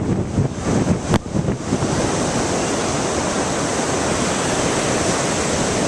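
Ocean surf washing in a steady hiss, with wind buffeting the microphone in the first second or so.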